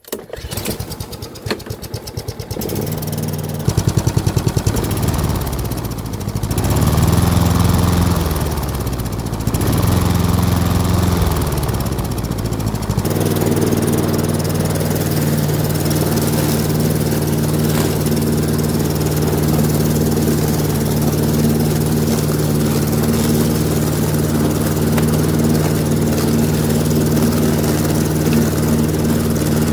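Lawn mower's small petrol engine starting up with uneven chugging. Its revs rise and fall twice, then from about halfway in it settles into steady running.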